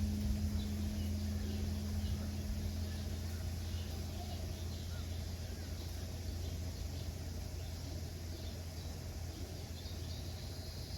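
Deep hum of a large struck temple instrument slowly dying away after a strike, under a faint outdoor background of insects and birds.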